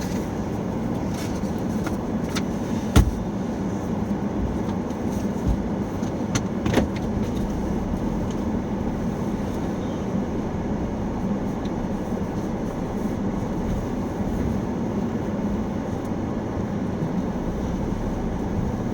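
Steady running noise of a car heard from inside the cabin, with one sharp click about three seconds in and a lighter knock near seven seconds.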